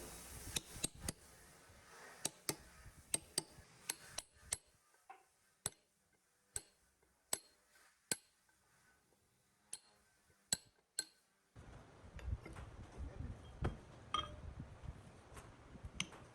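Sharp, irregular metallic clinks and taps of metal parts and hand tools being handled, some ringing briefly. A low rumbling background noise comes in about twelve seconds in.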